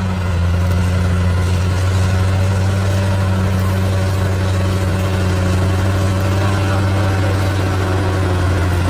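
Bulldozer's diesel engine running steadily with a deep hum. Its note drops slightly right at the start, then holds even.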